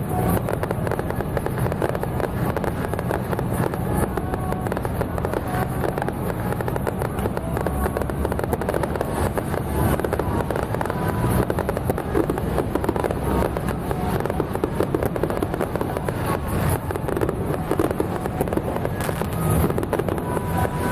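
Fireworks crackling densely and without a break, many small reports packed close together over a steady low rumble.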